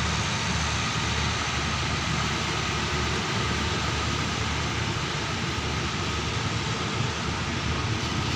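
Diesel-electric express train running with a steady rumble and hiss.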